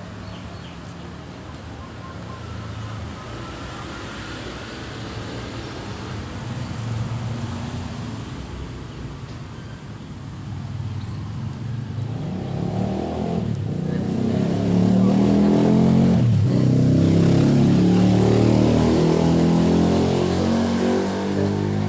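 Domestic cat purring close to the microphone, a steady low rumble that grows louder about twelve seconds in.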